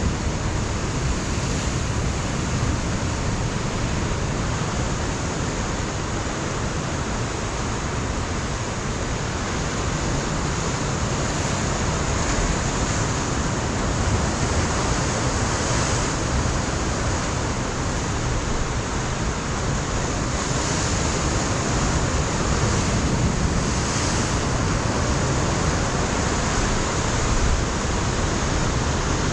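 Ocean surf breaking against a rocky shore, a steady dense wash of water noise that swells gently in loudness, with wind buffeting the microphone.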